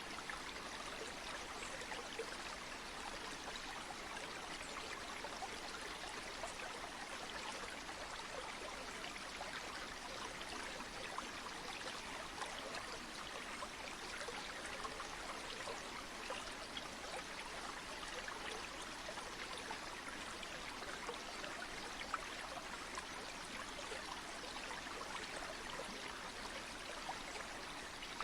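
Flowing stream or river: a steady, even rush of water with fine trickling detail and no breaks.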